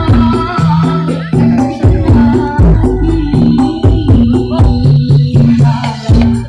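Loud dance music pumped through a huge carnival sound system, with heavy bass kicks roughly twice a second, a melodic line and a shaker rattle.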